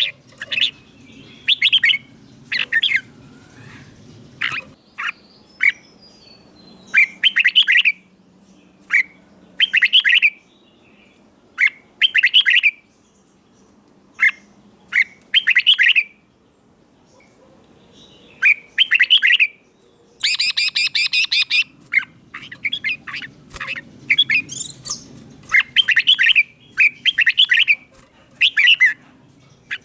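Red-whiskered bulbul singing: short, bright phrases repeated every second or two, with a rapid run of notes about twenty seconds in.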